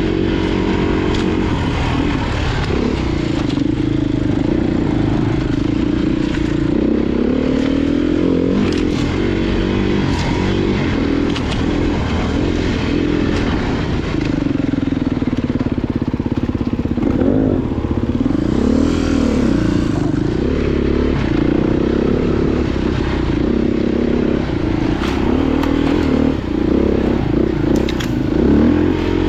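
Off-road motorcycle engines revving up and down in repeated throttle bursts, with scattered clattering knocks.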